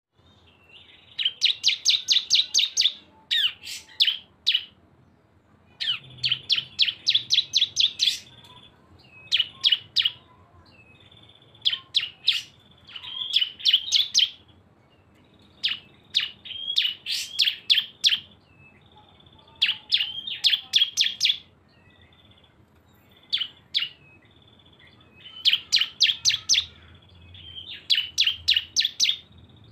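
Two bar-winged prinias (ciblek) singing in the rapid rattling 'ngebren' style: phrases of fast, sharp chips lasting one to two seconds, repeated every few seconds, with a thin high trill between some of the phrases.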